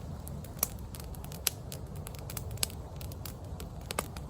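Wood campfire crackling, with sharp irregular pops over a steady low rumble.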